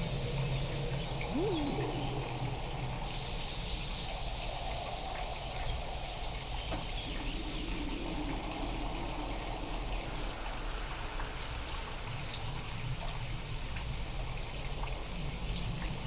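Steady rain recorded in a real storm and processed to sound otherworldly, with a low rumble of thunder swelling near the start and again later. A short chirp-like glide rises and falls about a second and a half in.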